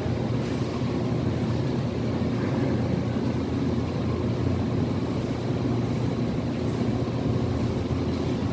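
Steady low mechanical drone that holds an even level throughout.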